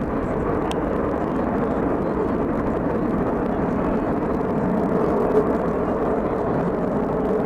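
Aircraft engine noise: a steady rushing drone with no clear pitch, swelling slightly about five seconds in.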